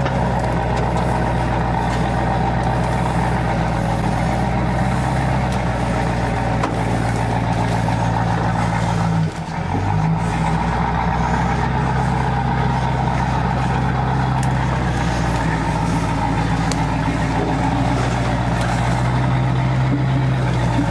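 Engine of the tow vehicle running steadily under load while dragging a stuck van. About nine seconds in, the note dips briefly, then picks back up.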